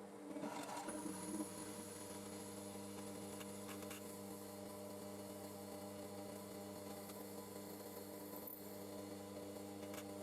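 Electric motor of a DIY belt grinder running steadily with an even hum, no grinding under way; a brief rustle of handling about half a second in.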